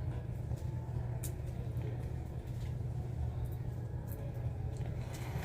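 Steady low rumble of a moving vehicle heard from inside, with a few faint clicks over it.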